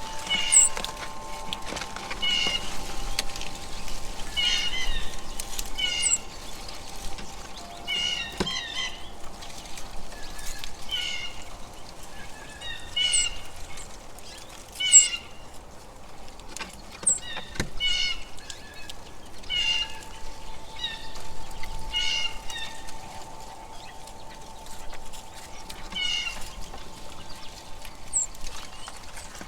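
A songbird calling over and over, a short burst of high chirpy notes every second or two, with a few thin, very high notes mixed in.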